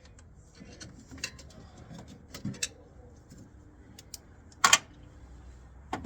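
Scattered light metallic clicks and clinks of tools or parts being handled, with one loud double knock about four and a half seconds in.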